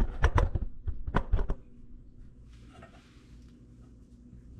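Several sharp clicks and knocks of handling at the refrigerator's water-line connection, packed into the first second and a half, then a quiet stretch with a faint brief hiss.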